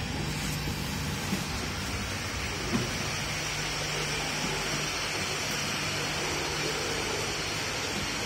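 Steady interior noise in the passenger car of an EN57AKM electric multiple unit: an even rumble with a low steady hum, and a couple of faint knocks in the first few seconds.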